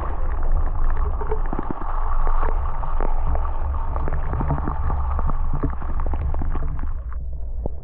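Wind buffeting the microphone: a heavy, uneven low rumble with scattered clicks and knocks. The upper part of the noise drops away suddenly near the end.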